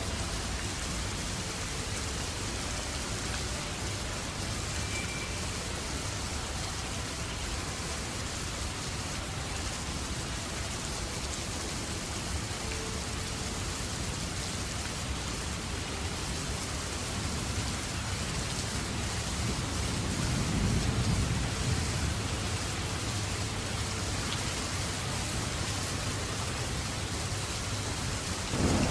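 Steady rain falling, an even hiss throughout, with a low rumble swelling up and fading about two-thirds of the way through.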